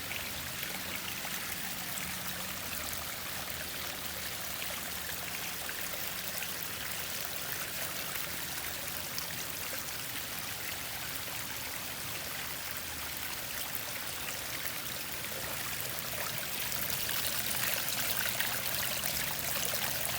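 Water from a backyard waterfall splashing and trickling steadily, a little louder near the end.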